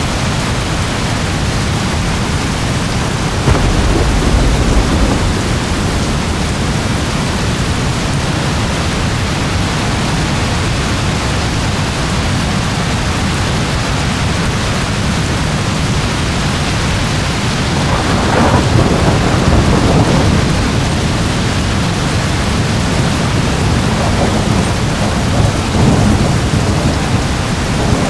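Steady heavy rain with thunder rolling: a low rumble a few seconds in, a louder roll past the middle, and another near the end.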